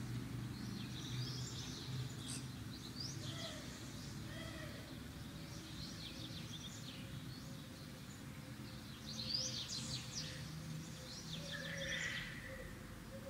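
Small birds chirping and twittering on and off in the background, busiest about nine to ten seconds in, over a low steady hum.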